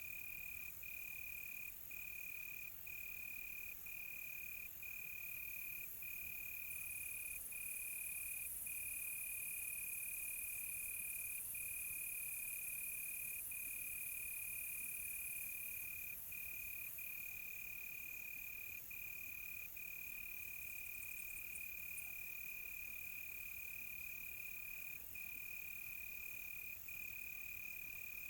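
Crickets trilling at night: one steady high chirring tone broken by short gaps about once a second, over a higher, thinner hiss that swells for a while in the middle.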